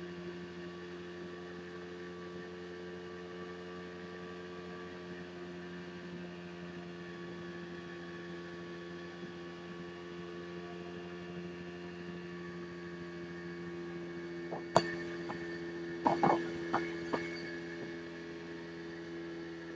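Outboard motor of a homemade plywood motorboat running at a steady speed, a constant even drone. A sharp knock about 15 seconds in and a few more knocks a second or two later.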